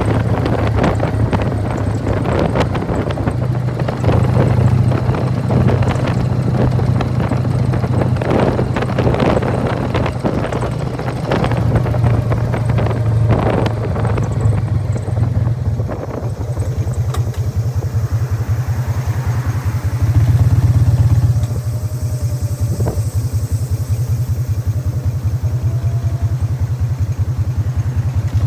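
1999 Harley-Davidson Fat Boy's Evolution V-twin through Python mufflers, running under way with rushing wind noise, then easing to slow, even exhaust pulses at low revs with a brief rev about two-thirds of the way through. A rattle from its open primary drive can be heard with the engine.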